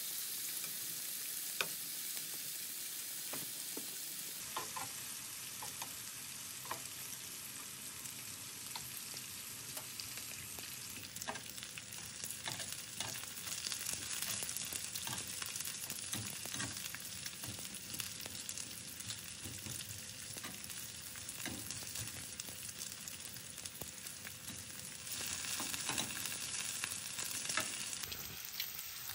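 Food frying, a steady sizzle with scattered pops and sharp clicks. The sizzle changes abruptly a few times.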